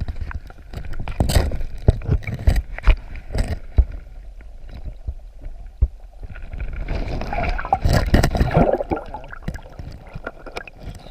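Water sloshing and gurgling as a man pushes down into a hole in a creek pool, with scrapes and knocks against rock and gear. A louder rush of gurgling comes about two-thirds of the way through.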